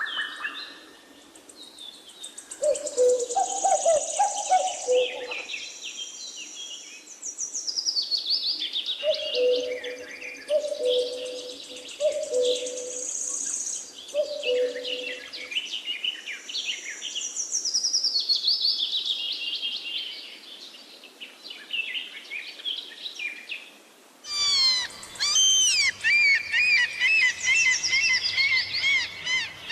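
Forest songbirds singing, with high warbling phrases and trills overlapping. In the first half there are repeated low two-note calls, each pair falling in pitch. About 24 seconds in, the sound switches abruptly to a denser, louder chorus of chirps and trills over a faint low hum.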